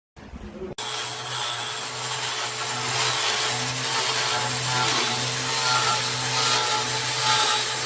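Electric power tool cutting and grinding into wood. The motor starts up abruptly with a brief stutter, then runs steadily under load.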